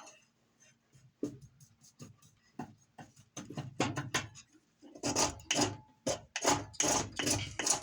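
A blade scraping thin shavings off a chunk of resin-rich fatwood in repeated strokes. The strokes are sparse at first, then come quicker and louder from about five seconds in, roughly two a second.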